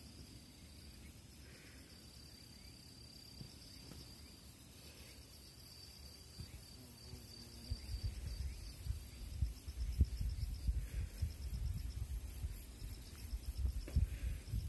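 Autumn insects singing: a steady high trill, turning into a pulsing chirp about two-thirds of the way in. From about halfway, an uneven low rumble rises and becomes the loudest sound.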